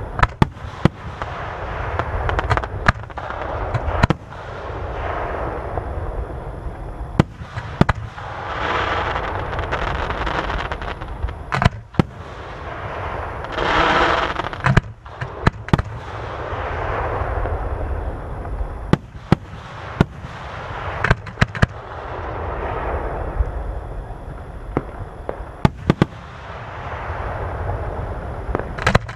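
Aerial fireworks display: a string of sharp shell bursts and bangs at irregular intervals throughout, over a continuous rush of noise between them, with one louder hissing swell about halfway through.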